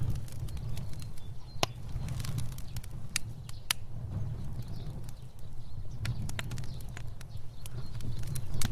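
Fire burning: a steady low rumble of flames with frequent, irregular sharp crackles and pops.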